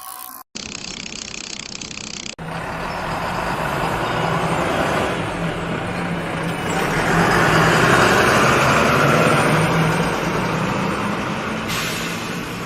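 Motor vehicle engine running with a steady low hum, growing louder toward the middle and easing off near the end. It follows a short, different clip that cuts off about two seconds in.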